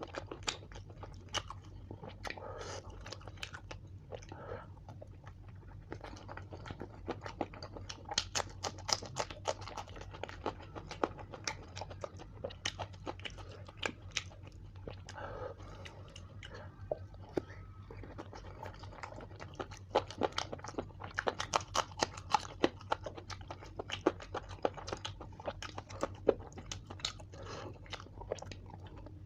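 A person eating close to the microphone, chewing with many irregular crunchy bites of fried chicken leg. A steady low hum runs underneath.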